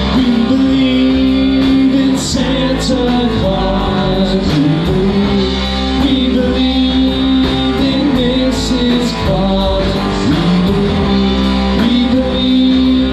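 Live rock-and-roll band playing a Christmas song, led by guitar, with a steady beat and cymbal hits.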